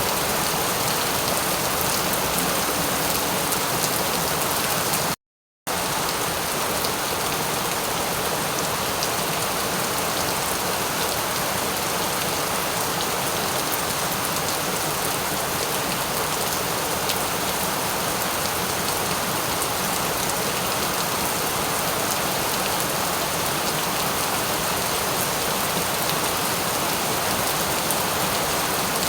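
Steady, even rain falling and pattering on a surface, with fine drop ticks. About five seconds in, the sound drops out completely for a split second, then resumes unchanged.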